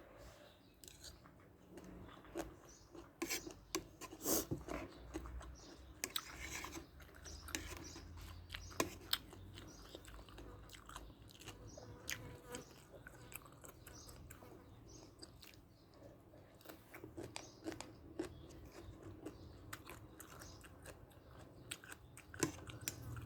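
A person eating close to the microphone: chewing with wet mouth sounds and scattered crisp crunches and clicks.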